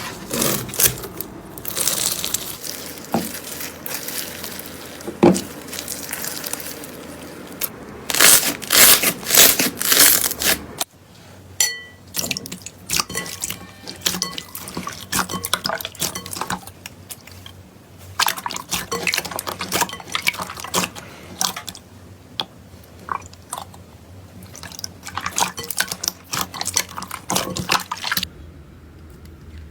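Slime being squeezed, poked and stretched by hand, giving irregular wet squelches and sticky popping clicks in bursts.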